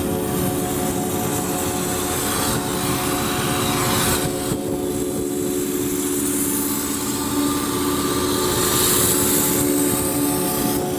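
A 1985 Ford LTD Crown Victoria Country Squire's V8 engine idling steadily with the hood up.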